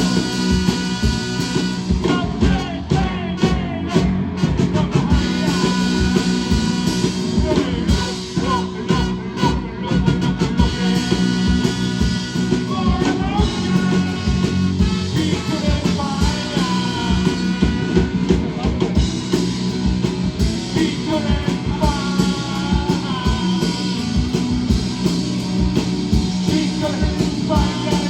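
Rock band playing a loud, steady song, with singing.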